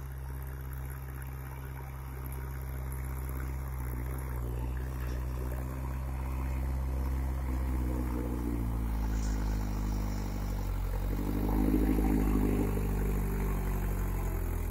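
Mahindra 415 DI tractor's diesel engine running steadily. From about eight seconds in, its revs rise and fall, and it is loudest around twelve seconds in.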